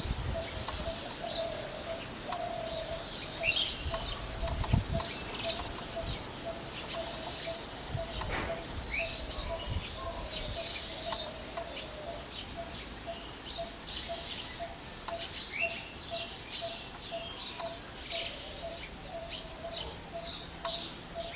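Several birds chirping and twittering in short, high calls, over a low note repeated evenly about twice a second. There are a few low bumps around the middle.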